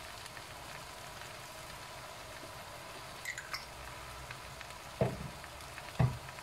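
Noodles and vegetables sizzling gently in a hot wok: a steady, even frying hiss. Two short low thumps come about 5 and 6 seconds in.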